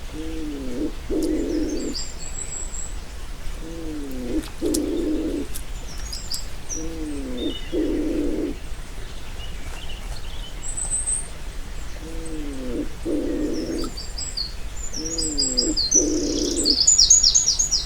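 Low two-part hooting call, a bending note followed by a held note, repeated about every three to four seconds. Small birds chirp high above it, busiest near the end.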